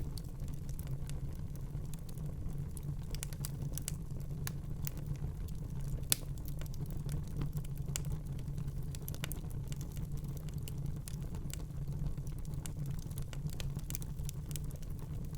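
Wood fire burning in a fireplace: a steady low rumble of the flames with frequent irregular crackles and small pops, one sharper pop about six seconds in.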